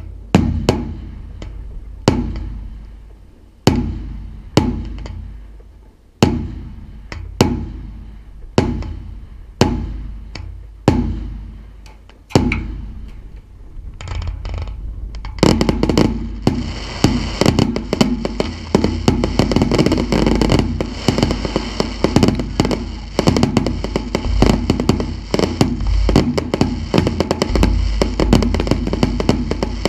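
Fireworks display: aerial shells bursting as separate loud bangs about every second or so, each trailing off in an echo, then about halfway through a dense barrage of rapid crackling and popping that keeps up without a break.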